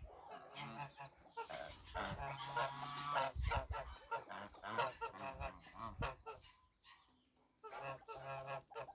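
Domestic geese honking, a run of repeated calls with a short lull about two-thirds of the way through.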